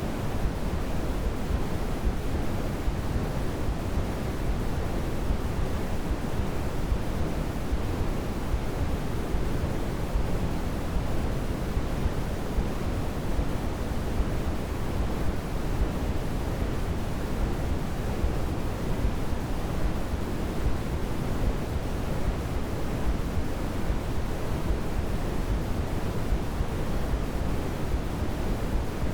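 Continuous white noise for baby sleep: a steady, even, deep-toned hiss, stronger in the low end than the highs, with no change or break.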